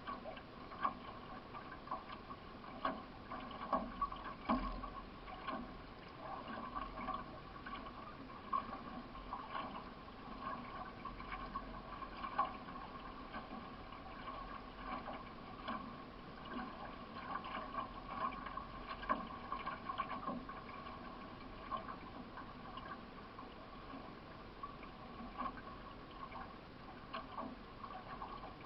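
Water splashing and gurgling around a solo racing canoe as it is paddled, with frequent small, irregular splashes from paddle strokes.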